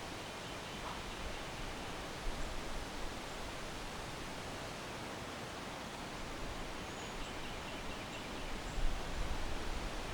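Wind blowing through backyard trees: a steady rustling hiss, with stronger low gusts about two seconds in and again near the end.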